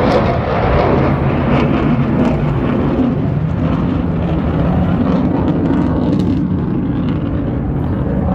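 An aircraft flying past: a loud, steady engine noise that is strongest in the first seconds and then eases slightly as its higher part fades.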